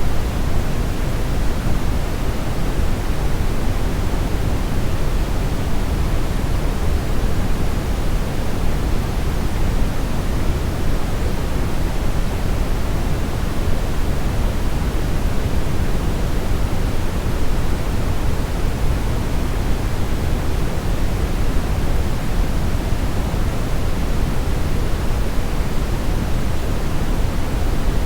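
Steady brownish noise: an even, unchanging deep hiss, heaviest in the bass and thinning toward the treble.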